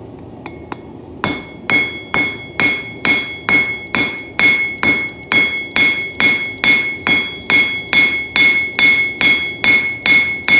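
Forging hammer striking hot coil-spring steel on an anvil, drawing out and flattening the knife's handle section. Two light taps, then a steady run of about twenty blows, a little over two a second, each with a short metallic ring from the anvil.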